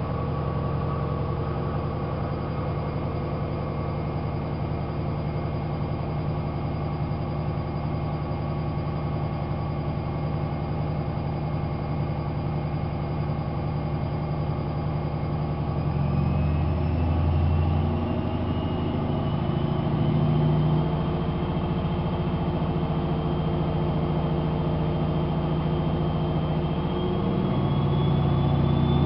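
AEG Lavamat 5210 washing machine spinning its drum, a steady motor hum and whine. From about halfway the whine rises slowly in pitch and the machine gets louder as the spin speeds up.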